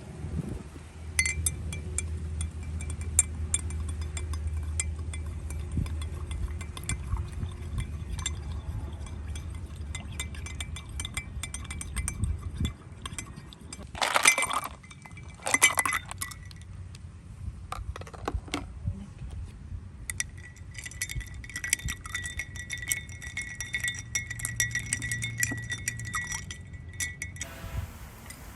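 Spoon stirring in a glass of iced coffee, clinking rapidly against the glass with a ringing tone. Two louder clatters come about halfway through.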